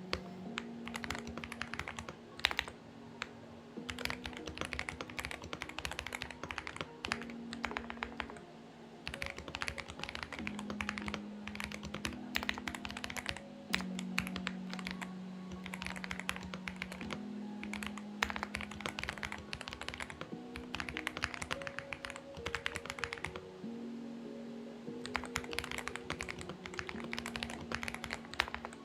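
Fast typing on a Xinmeng X98 mechanical keyboard, in bursts of clicky keystrokes with brief pauses, over soft background music of slowly changing held notes.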